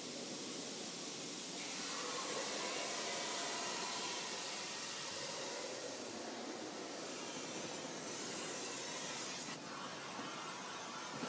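Water spraying from an automatic car wash's jets onto a car, a steady hiss that grows stronger about two seconds in and eases off shortly before the end.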